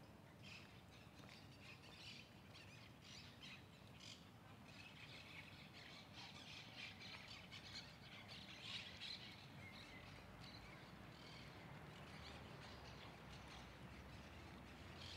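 Faint chirping of birds in the trees, many short calls overlapping, busiest midway, over a low steady background hum.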